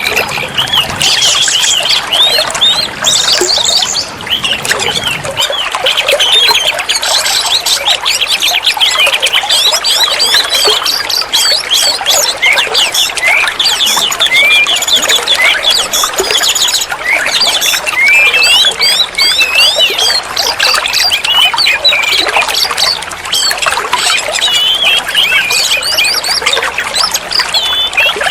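Oriental magpie-robin (kacer) singing without a pause: a fast, varied run of whistles, chirps and trills that slide up and down in pitch.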